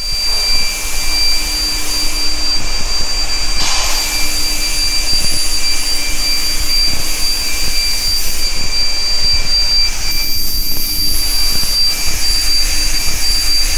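Induction heating furnace line running: a steady, loud machine noise with a constant high-pitched whine over it and a brief noisier swell about four seconds in.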